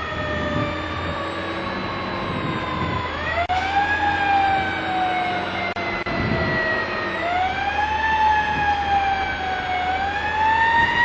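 Fire truck siren wailing. The pitch falls slowly, climbs back up, and repeats about three times, over a steady low rumble.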